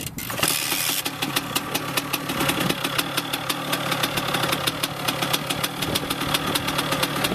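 Dirt bike engine running at a steady idle, with a fast, regular popping beat.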